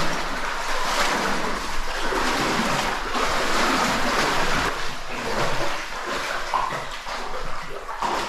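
Water splashing and sloshing unevenly as people wade through a pool in a cave passage.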